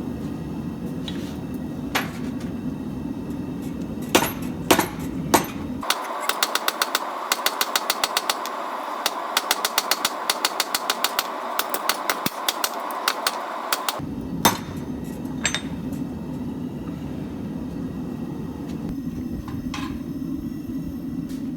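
Hammer blows on steel at an anvil as a knife blade is forged. A few separate strikes come first, then a quick, even run of blows for about eight seconds, over a steady low hum.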